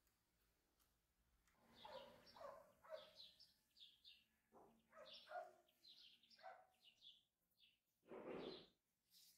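Faint birds chirping, short repeated high notes coming in about a second and a half in. Near the end comes one louder, short noisy sound.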